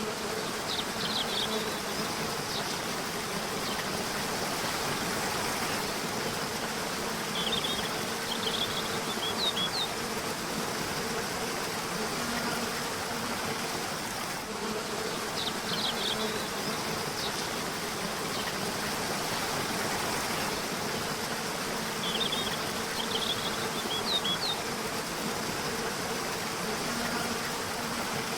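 River water flowing steadily under a faint low buzzing hum. Short bursts of high bird chirps come every seven seconds or so.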